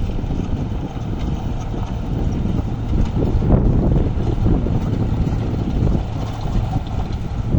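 Heavy diesel earthmoving machinery running with a steady low drone, a little louder about three seconds in.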